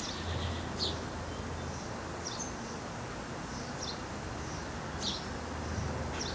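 Short, high bird chirps, about five of them a second or so apart, over a steady low hum.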